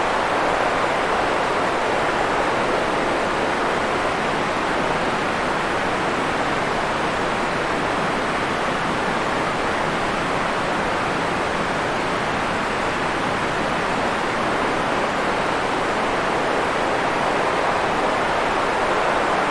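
Steady, unchanging noise hiss, strongest in the middle range and falling off in the highs: a synthetic sleep noise track.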